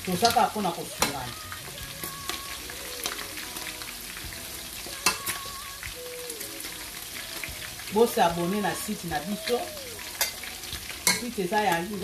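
Chicken pieces frying and sizzling in a pan, with sharp clicks of a metal slotted skimmer knocking against the pot and plate several times.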